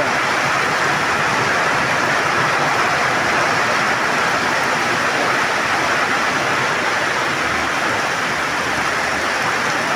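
Heavy rain pouring down steadily on a paved street, with water running across the pavement.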